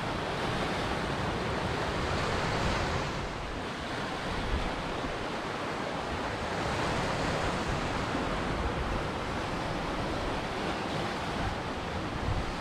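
Ocean surf washing in steadily, swelling a little every few seconds.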